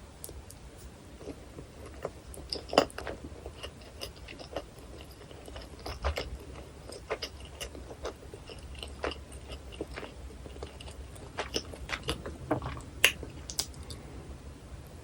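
Close-miked biting and chewing of a hot dog topped with onion, chili and cheese sauce: scattered sharp, crisp clicks and wet mouth sounds, loudest about three seconds in and again near thirteen seconds.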